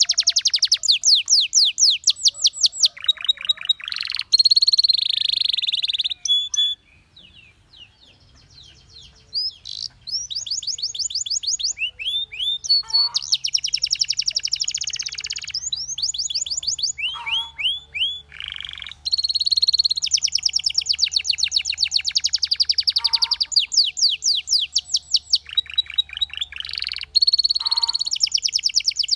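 Belgian canary singing in long, fast trills of rapidly repeated high notes, phrase after phrase, with a short pause about seven seconds in before the song resumes.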